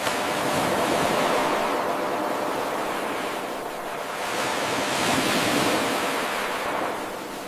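Ocean surf washing in a seamless-sounding loop: the rush of water swells and ebbs twice. It starts with an abrupt jump in level where the 8-second recording restarts.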